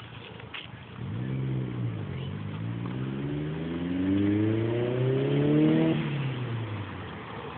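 A motor vehicle's engine accelerating past. Its pitch rises briefly, dips, then climbs steadily for about four seconds before dropping and fading.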